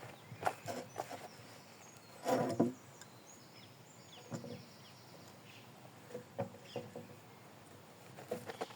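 Scattered light knocks and clunks, with a louder cluster about two and a half seconds in.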